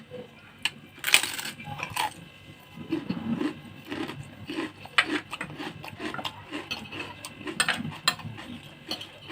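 Close-up eating sounds: a spoon or fork clinking against a plate several times, with a louder scrape about a second in. From about three seconds in, steady chewing at about two chews a second.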